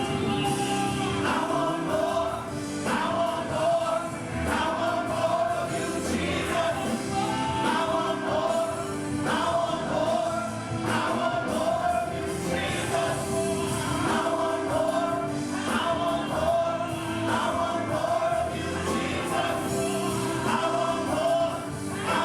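Gospel choir singing a slow worship song with a band, held sung notes over a steady beat.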